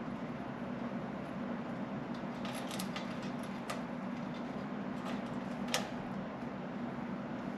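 A few short, sharp clicks and taps over a steady low hum; the loudest click comes a little past the middle.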